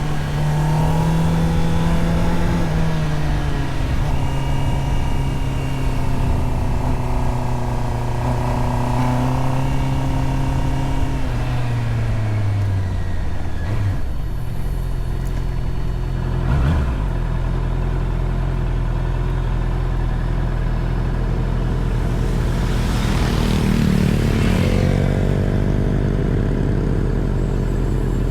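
Honda CBR650R's inline-four engine running under way, holding a mostly steady pitch with rises and falls in revs; the revs drop about twelve seconds in. A couple of short knocks follow, and a broad rush of noise swells and fades a little over twenty seconds in.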